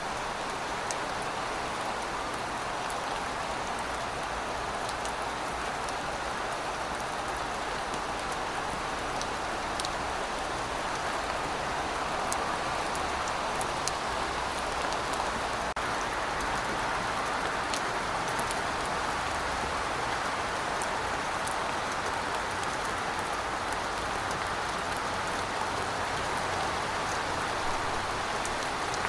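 Heavy rain falling steadily in a dense, even hiss, with fine drop ticks scattered through it.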